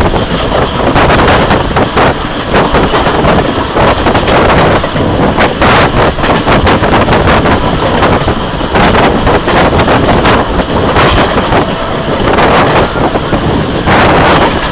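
Moving passenger train heard from a window seat inside the carriage: a loud, continuous rumble and clatter of wheels on the track and the coach rattling.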